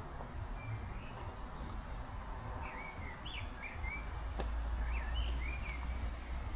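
Steady heavy rain hiss with a low wind rumble on the microphone. A small bird calls a quick string of short chirping notes through the middle, and a single sharp tick sounds about four and a half seconds in.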